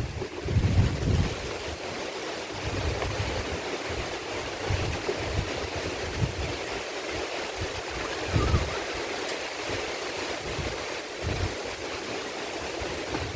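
Steady heavy rain in the forest with wind, gusts buffeting the microphone in low rumbles.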